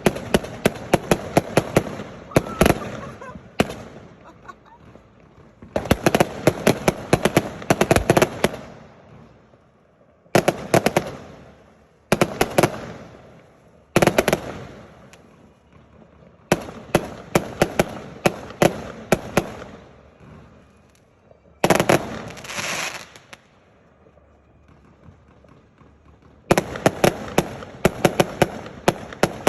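Firework display: rapid volleys of sharp bangs and crackles, each lasting a second or three, with short lulls between. About two-thirds of the way through, one burst carries a longer hiss.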